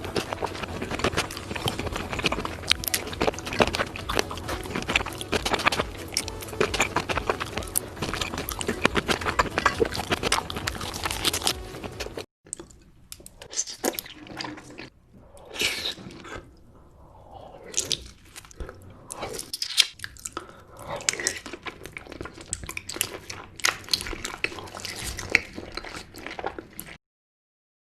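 Close-miked chewing of raw salmon: wet smacking and clicking mouth sounds, dense and continuous for about the first twelve seconds, then after a sudden drop sparser separate smacks and chews, stopping abruptly near the end.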